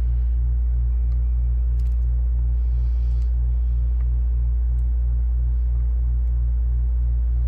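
Steady low hum with a throb pulsing about five times a second, continuing unchanged under the bench work; a few faint clicks and a brief soft hiss about three seconds in.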